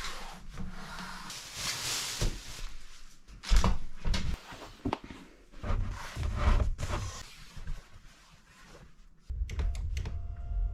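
Rustling and handling noises with scattered clicks and knocks as a recliner chair is assembled, with one loud thump about three and a half seconds in. Near the end a steady low hum with a faint tone sets in.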